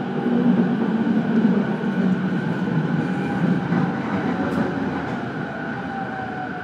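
Running sound inside a motor car of an E231 series electric commuter train: a steady rumble of wheels on rails, with a faint whine that slowly falls in pitch. The whole sound gradually gets quieter toward the end.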